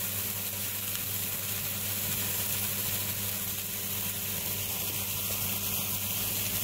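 Chopped vegetables frying in oil in a frying pan, sizzling steadily, under a steady low hum.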